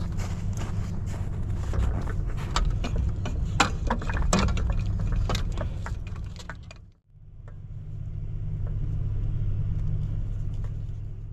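Strong wind buffeting the microphone as a heavy low rumble, with scattered sharp clicks and rattles over the first several seconds. The sound drops out briefly about seven seconds in, then the wind rumble returns without the clicks.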